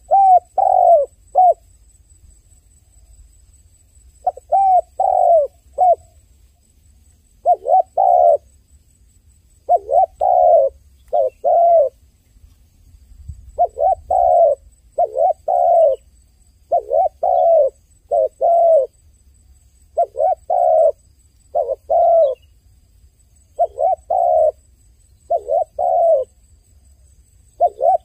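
A dove cooing in short phrases of three or four notes, each note rising and falling, repeated every two to three seconds.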